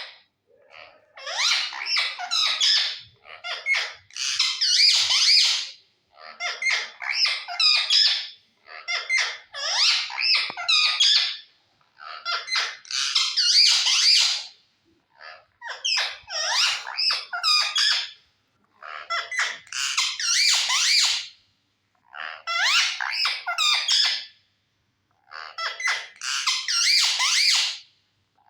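Pet parrot chattering and squeaking in about a dozen high-pitched, warbling bursts of a second or two each, with short pauses between.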